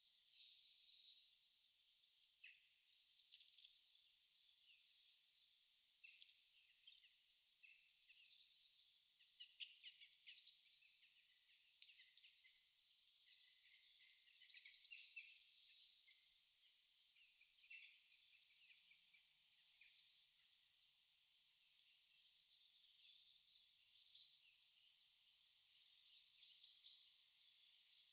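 Small birds chirping: a louder, bright phrase comes back every four to six seconds among many fainter chirps and trills.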